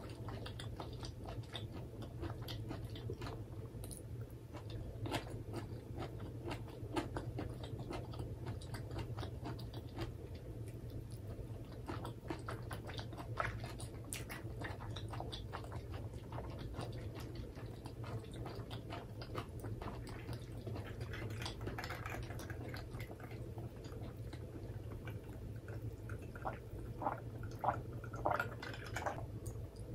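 Close-miked chewing and wet mouth sounds from eating a bite of simmered vegetables, with many small clicks over a steady low hum. Near the end there are a few louder gulps as she drinks from a glass.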